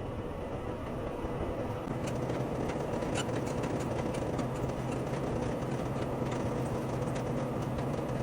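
Semi truck running with a steady engine drone, with faint scattered ticks starting about two seconds in.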